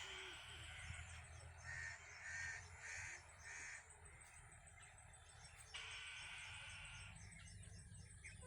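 A bird calling four short calls in a row, about half a second apart, faint against a steady background hiss.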